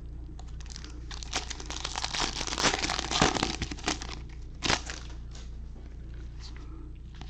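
A card pack's foil wrapper being torn open and crinkled: a dense run of crackling rustles lasting about four seconds, with a last short crinkle near the end.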